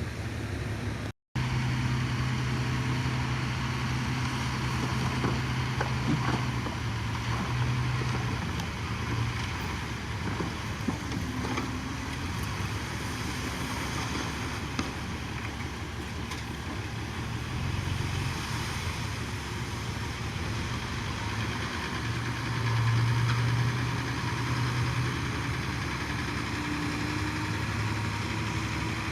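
Heavy diesel engine of earthmoving machinery running steadily, its pitch and loudness shifting several times as the load changes. It swells louder near the end. A few sharp knocks come through.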